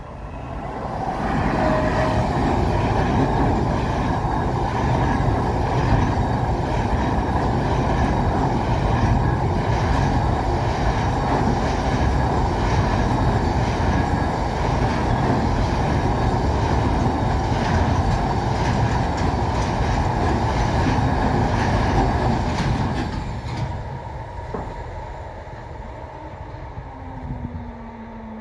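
Freight train of container wagons passing close by over a level crossing: a loud, steady noise of wheels on the rails that builds over the first two seconds and dies away over the last few. Near the end a low hum, falling slightly in pitch, comes in as the crossing barriers start to lift.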